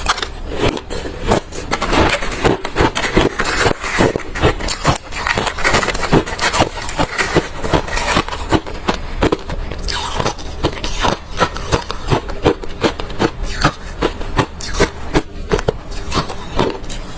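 Close-miked chewing of hard refrozen crushed ice: a steady run of loud, sharp crunches, about two to three a second, as mouthfuls are bitten through and ground.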